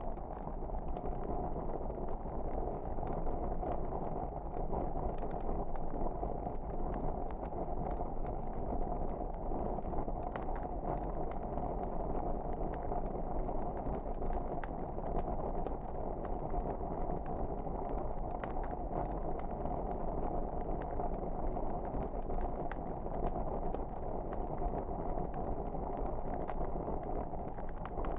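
Wood fire crackling in a fireplace: a steady low rush of flames with frequent small, irregular pops and snaps.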